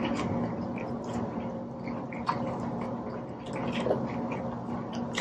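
Quiet chewing and mouth sounds of people eating lobster tails, with a few faint clicks, over a steady low hum.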